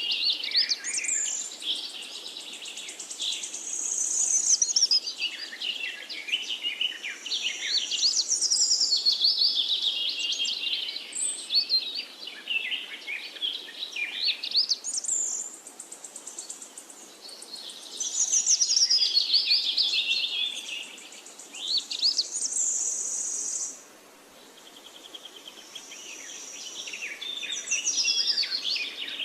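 Songbirds singing: a continuous stream of high chirps, trills and quick sweeping notes, with a short lull about three-quarters of the way through.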